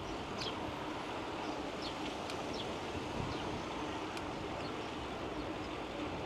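Steady rolling noise of a bicycle ride, with wind on the microphone and a faint steady hum. Short, high, falling chirps of small birds break in several times, along with a few light ticks.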